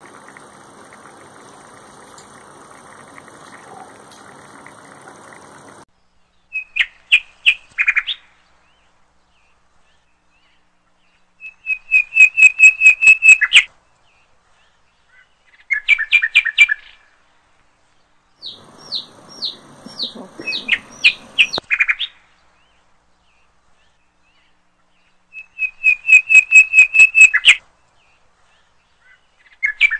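A bird chirping in loud bursts of quick, sharp, high notes, one burst every few seconds. A faint steady hiss comes before it, in the first six seconds or so.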